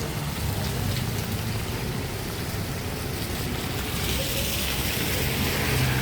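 Steady rain falling, with the low hum of passing traffic underneath; the hiss swells in the second half.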